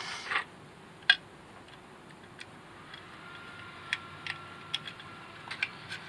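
Small clicks and taps of plastic parts and a screw being handled and fitted on a robot vacuum's motor housing: a cluster at the start, one sharp click about a second in, then scattered light ticks.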